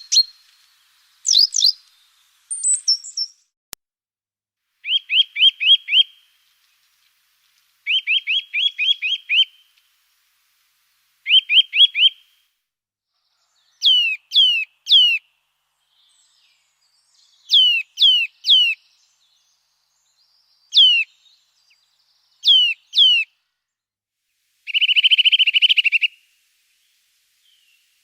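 Small songbird singing in short, separate phrases of two to six quick, high, sweeping notes with pauses of a second or two between them, and a longer buzzy trill near the end.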